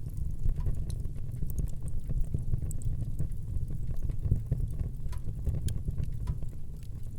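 Wood fire burning in a fireplace: a steady low rumble of the flames with many small, irregular crackles and pops throughout.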